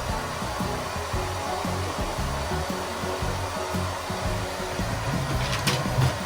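Hair dryer running steadily, blowing air, with a short sharp sound near the end.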